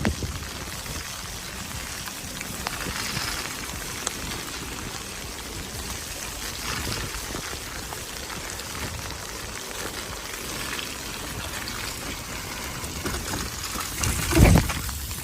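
Steady hiss of rain while riding a bicycle on a wet trail, with an uneven low rumble of wind on the microphone. A brief loud low thump near the end.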